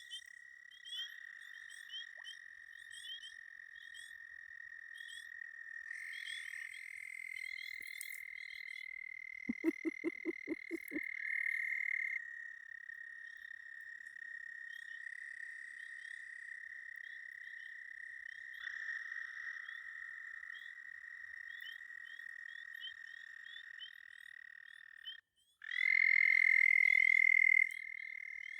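A night chorus of pond frogs: long, steady, overlapping trills at one high pitch, with short chirps repeating above them. About ten seconds in comes a quick run of about ten low croaks, and near the end one frog trills loudly close by for under two seconds.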